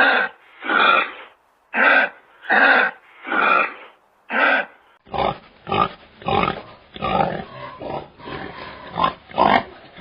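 Farm animal calls: a run of about seven short, loud calls, each about half a second long. About five seconds in, a different recording follows with denser, rougher grunting calls.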